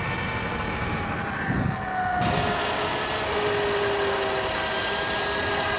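Electric dirt bike's motor whining at high speed during a top-speed run, its pitch slowly easing down, over loud wind rush.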